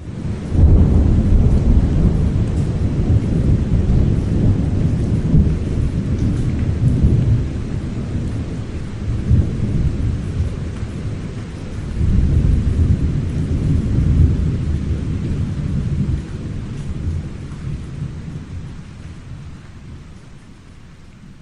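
Thunder rumbling over steady rain: a long low roll that starts suddenly, swells several times, and slowly dies away over the last few seconds.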